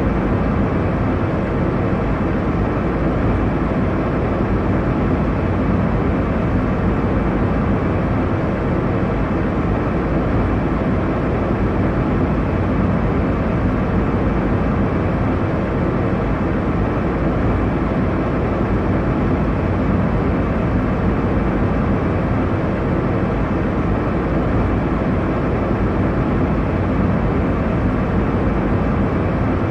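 Steady airliner cabin noise in flight: an even, unchanging rush of engine and airflow noise, strongest in the low end, with a faint steady hum.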